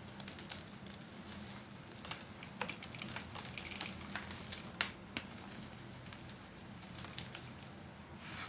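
Slabs of gym chalk being crushed and crumbled by hand: a stream of sharp, irregular crunches and crackles, busiest in the middle, over a faint steady hum.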